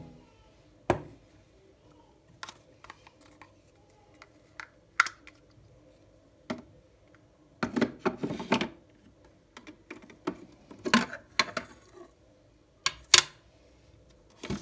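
Irregular light clicks and taps of small objects being handled on a desk, with a busier run of them about eight seconds in and louder ones near eleven and thirteen seconds.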